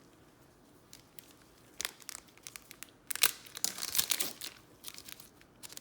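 Topps Star Wars trading card pack being torn open: its wrapper crinkles and tears in a burst of sharp rustles starting about two seconds in.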